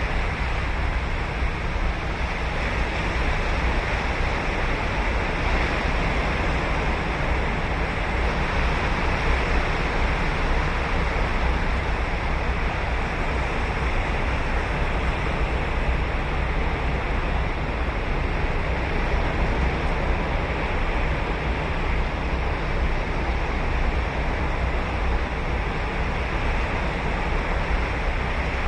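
Ocean surf on a beach: waves breaking and washing in a steady, unbroken rush of sound.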